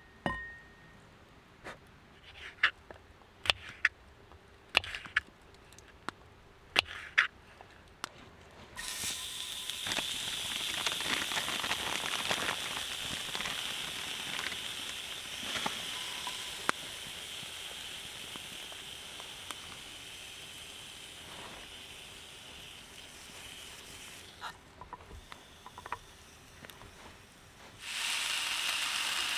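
A few sharp clicks and taps of cookware being handled. Then meat sizzling in a hot frying pan starts suddenly about nine seconds in and slowly dies down. A fresh burst of sizzling starts near the end.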